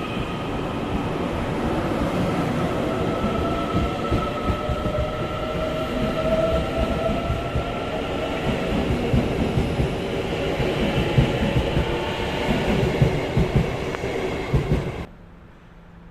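Train running on the rails: wheels clatter over the rail joints under a rumble, with a high squeal whose pitch drifts. The clatter grows busier and louder, then the sound cuts off suddenly about 15 seconds in.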